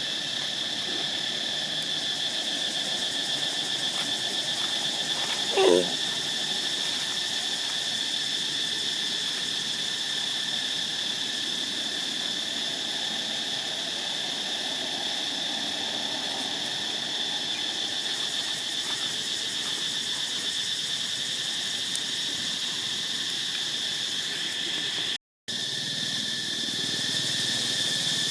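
Steady high-pitched insect drone, with one short squeal falling in pitch about six seconds in, from a young monkey.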